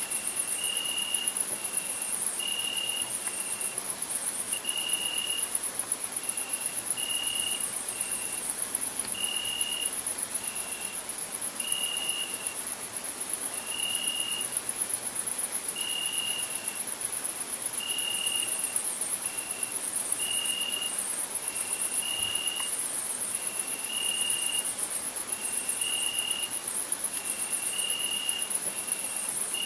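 Crickets stridulating: a dense, steady high-pitched trill, with lower chirp-like notes repeating in long-short pairs about every two seconds.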